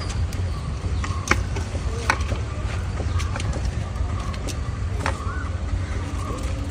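Street noise: a steady low traffic rumble, with scattered sharp clicks and taps and a few faint short tones.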